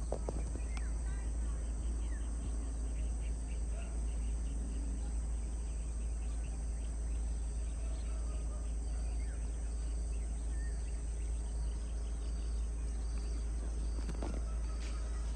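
Rural outdoor ambience of insects, crickets among them, buzzing steadily in high tones, with a pulsing insect call joining in the second half and scattered faint bird chirps, over a steady low rumble.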